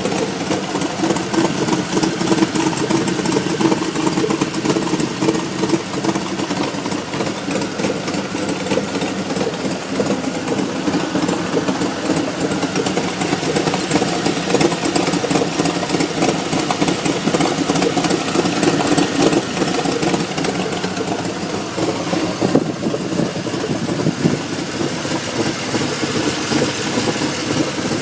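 2003 GMC Yukon's V8 engine running steadily. It is making a strange exhaust sound that the owner cannot identify, with the check engine light on.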